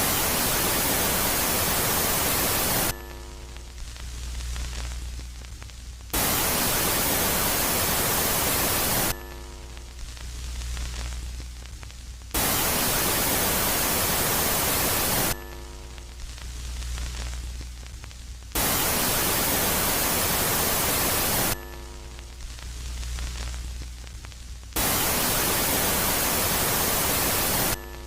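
Electronic space-ambient sound switching sharply between a loud phase of hiss-like static and a quieter phase of low hum with a stack of faint steady tones. Each phase lasts about three seconds, giving five loud phases in a regular cycle.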